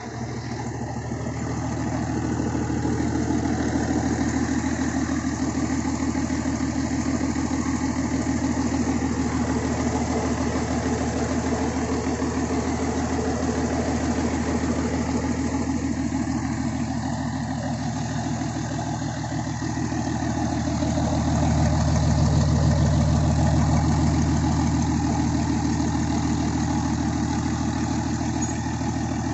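An engine running steadily at idle during a test run, picking up a little a couple of seconds in and swelling louder again about two-thirds of the way through before settling back.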